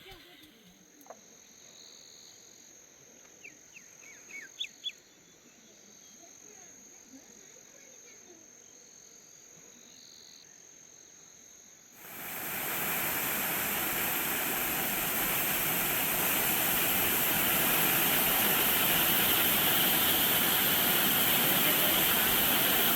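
A faint steady high tone with a few short chirps, then about twelve seconds in a loud, steady rushing hiss sets in abruptly and holds to the end.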